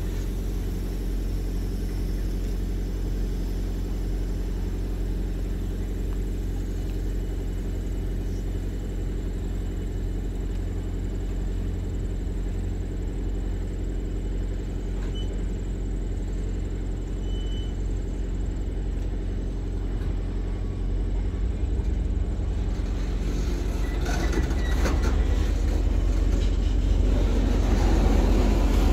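East Penn Railroad GP9R diesel locomotive running with a steady low throb while the train stands. From about 23 seconds in it grows louder as the freight cars start to roll, with rising wheel-on-rail rumble and a few knocks from the cars.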